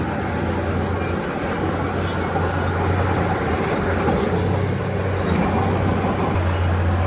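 Heavy diesel engine of a Komatsu D31P bulldozer running steadily with a constant low drone and a rumbling, noisy haze over it. The low drone weakens for a few seconds in the middle and comes back strongly near the end.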